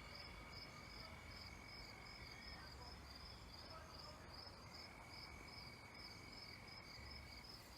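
Faint crickets chirping in an even, regular rhythm, with a thin steady high tone that stops for a couple of seconds midway and then returns.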